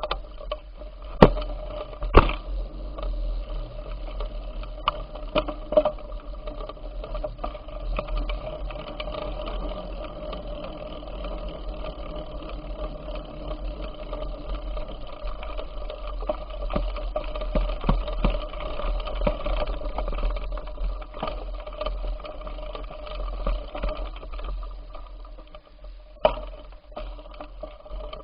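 Bicycle on the move: a steady mechanical whirr of chain and tyres over a low rumble, with scattered sharp knocks and rattles, the loudest about a second and two seconds in.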